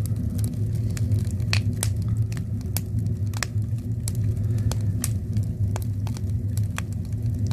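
Wood fire crackling in a stone fireplace, with irregular sharp pops over a steady low rumble.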